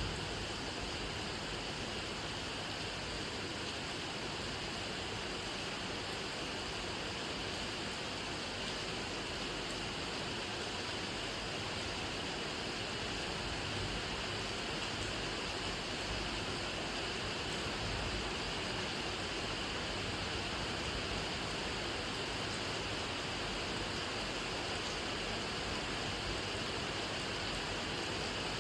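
Steady rainfall, an even hiss of drops with no distinct strokes or changes.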